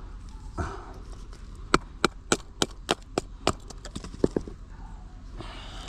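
Batoning firewood into thin kindling: a wooden baton strikes the spine of a knife driven into a stick, a run of about eight sharp wooden knocks roughly three a second, splitting the wood.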